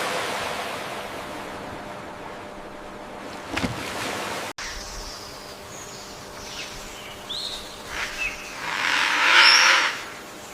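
Rushing, surf-like noise that cuts off abruptly partway through, followed by scattered bird chirps and a louder call near the end.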